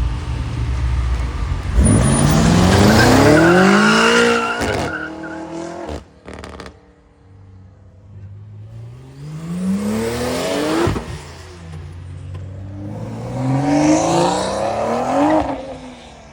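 Car engine idling, then revved hard three times, the pitch climbing on each rev before falling away; the first rev, about two seconds in, is the loudest.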